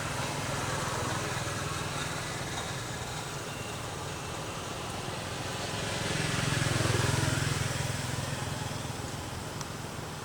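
A vehicle engine's low hum over a steady outdoor background. It swells to its loudest about seven seconds in and then fades, as a vehicle passing by.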